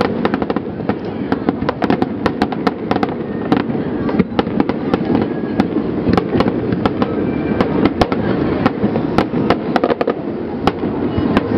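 Fireworks shells bursting in quick, irregular succession: many sharp bangs and crackles over a continuous low background of overlapping bursts.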